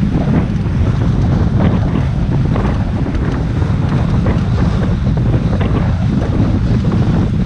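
Motorboat under way across a lake: steady engine and hull noise, water slapping and splashing against the hull, with heavy wind buffeting the microphone.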